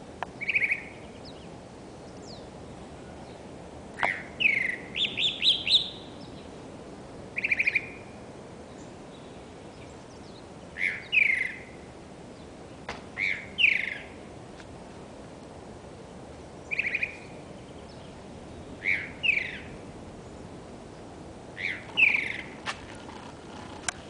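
A songbird singing short chirping phrases of quick falling notes, repeated every two to four seconds.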